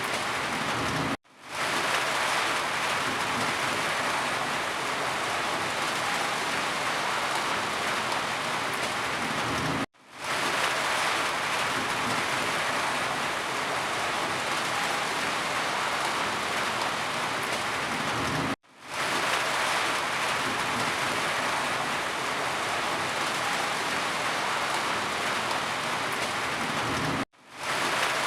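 Steady rain falling. It cuts out for an instant and fades back in about every nine seconds, four times.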